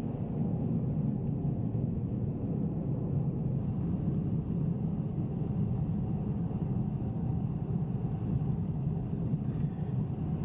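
Car driving at a steady speed: a continuous low rumble of engine and tyre noise.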